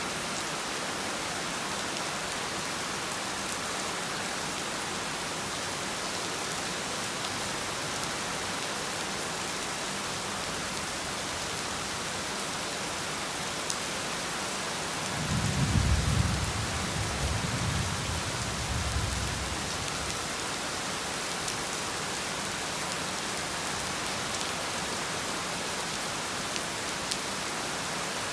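Heavy rain falling steadily, with a low roll of thunder that swells about halfway through and rumbles away over a few seconds.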